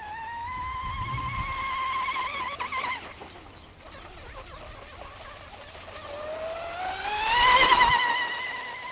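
A small motor whining as it spins up, its pitch rising then holding steady. It winds up twice, the second time louder.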